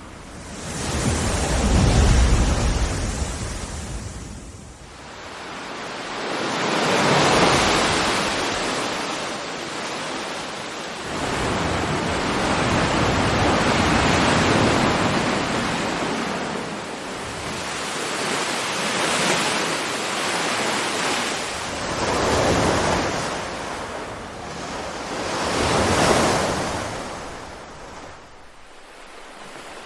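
Ocean waves washing in and drawing back, a hiss of surf that swells and fades about six times, every four to six seconds.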